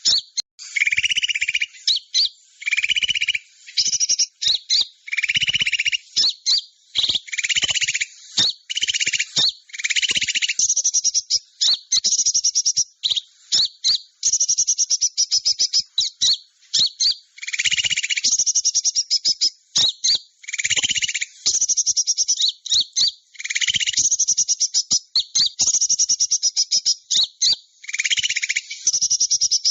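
Small-bird lure calls (suara pikat): rapid, high chirping trills, broken every second or two by lower, buzzy trilled bursts, repeating over and over.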